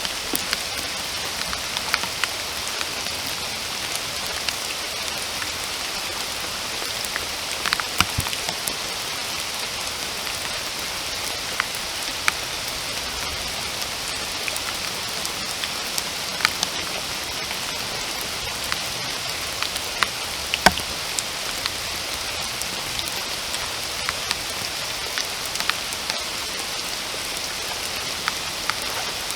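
Steady rain falling in a forest, a constant hiss with scattered louder individual drops ticking on nearby surfaces.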